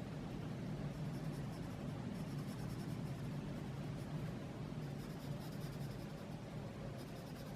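Colouring on paper: the tip of a colouring tool rubbing steadily back and forth as it shades in an area, growing slightly fainter near the end.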